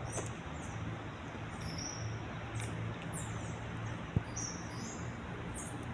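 Small birds chirping with many short, high, quick notes, some sliding in pitch, over a steady low hum. A single brief click about four seconds in.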